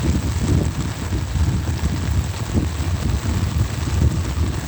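Heavy rain pattering on an umbrella, with a low, uneven rumble of wind buffeting the microphone.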